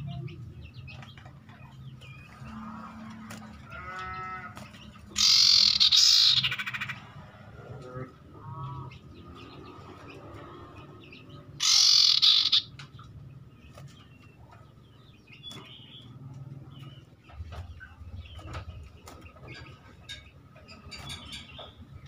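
Common ioras (cipoh) calling: short chirps and a few pitched calls, broken twice by loud harsh chattering bursts. The first burst comes about five seconds in and lasts about a second and a half. The second, shorter one comes about twelve seconds in.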